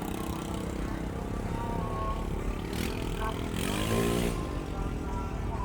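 Vehicle engine running with a steady low rumble, revved once about three and a half seconds in, its pitch rising and falling back within about a second.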